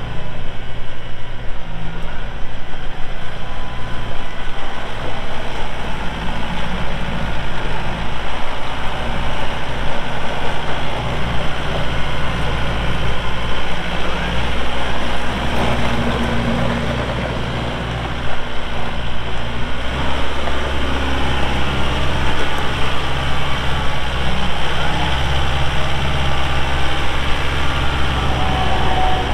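Kubota M7060 tractor's four-cylinder diesel engine running steadily. Its note dips briefly about eighteen seconds in, then runs heavier for the rest of the stretch.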